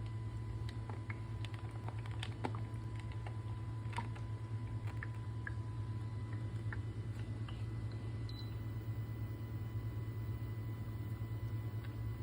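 Cool mist humidifier running with a steady low hum, with scattered light clicks and taps during the first several seconds.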